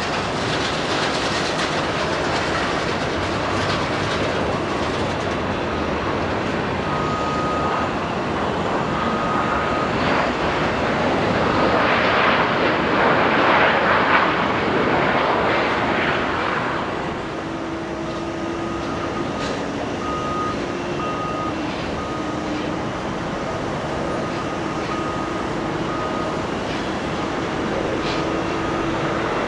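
Jet airliner engines giving a steady loud rush that swells about halfway through and then eases, with faint steady whining tones in the second half.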